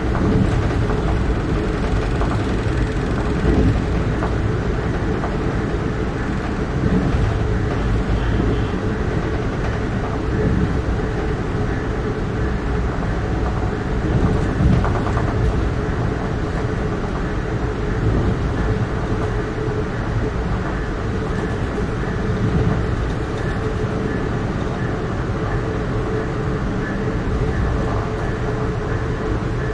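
Amtrak Keystone passenger train running at speed, heard from aboard: a steady rumble of wheels on rail with a faint steady hum and a few brief louder jolts.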